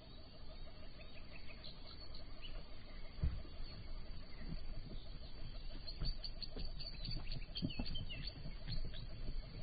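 Small birds chirping in quick high calls, coming thick from about six seconds in, over a steady fast pulsing trill lower down. A couple of dull thumps fall about three seconds in and near eight seconds.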